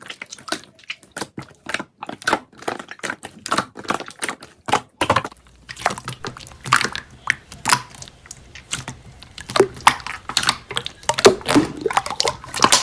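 Slime being squished and poked by hand, a dense run of irregular sticky clicks and pops; a faint low hum comes in about five seconds in.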